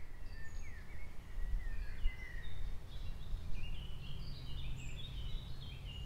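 Several songbirds chirping and singing, with short overlapping high notes that grow busier in the second half, over a steady low rumble.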